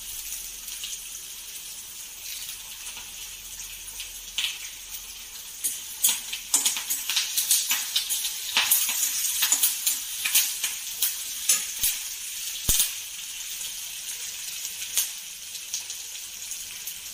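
Onion and curry leaves sizzling in hot oil in an iron kadai, with a steel spatula clinking and scraping against the pan as they are stirred; the clinks come thickest in the middle.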